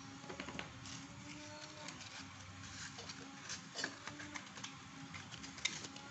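Quiet, irregular small clicks and taps, one sharper click near the end, over a faint steady hum.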